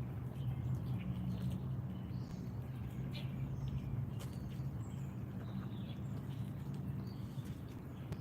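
Wild birds giving short, scattered chirps and calls over a steady low hum, with a few light clicks.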